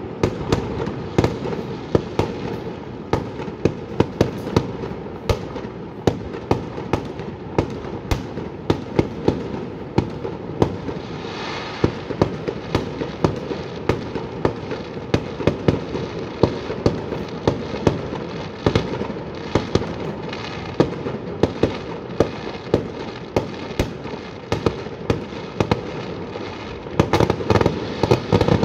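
A fireworks display: aerial shells bursting in a continuous run of bangs, often one or two a second, over a steady rumble, with a dense volley of bangs near the end.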